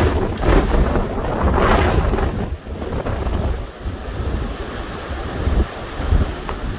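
Hurricane Ian's wind gusting hard and buffeting the microphone, a heavy low rumble under a rushing hiss. The strongest gust comes in the first two seconds, then it eases to a steadier blow.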